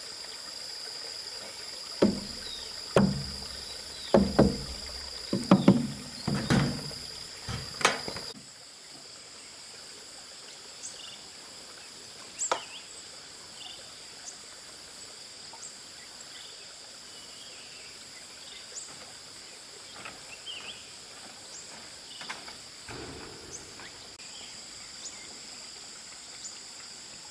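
Insects trilling steadily outdoors, with a run of about eight sharp knocks over some six seconds. After that the trilling carries on more faintly, with scattered short high chirps and an occasional soft click.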